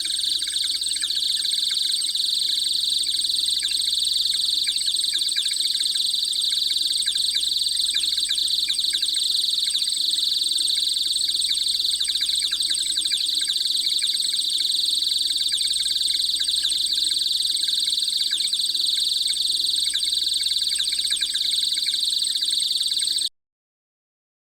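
Dense, continuous bird chirping, high-pitched and unbroken, ending abruptly near the end.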